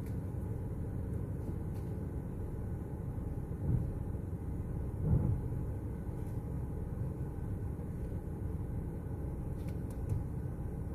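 Car engine idling while stopped, heard from inside the cabin as a steady low rumble, with two brief louder low sounds about four and five seconds in.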